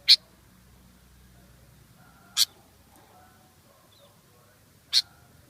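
Sooty-headed bulbul calling: three short, sharp notes about two and a half seconds apart, with faint softer bird chirps between them.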